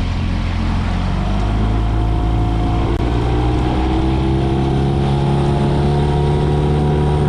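Boat motor running under way, its pitch climbing a little over the first few seconds and then holding steady.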